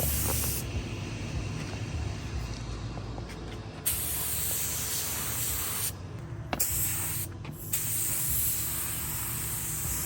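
Paint being sprayed onto parts: a steady spray hiss that stops and starts again three times.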